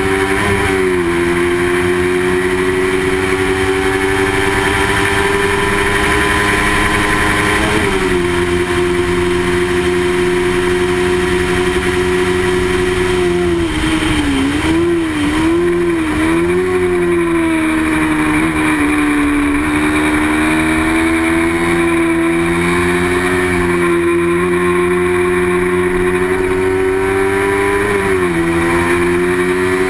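Racing motorcycle engine held at high revs, its pitch climbing slowly as it gathers speed. The pitch drops sharply at gear changes about a second in, about eight seconds in and near the end. Around the middle it wavers up and down briefly as the throttle is eased and reopened.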